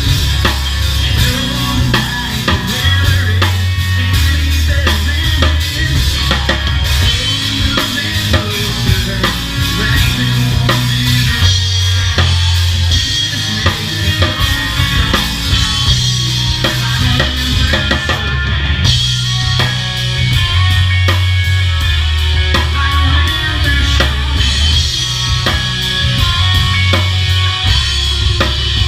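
Live rock band playing an instrumental section with no vocals: a drum kit drives it with kick, snare and rimshot hits over low bass notes that change every second or two.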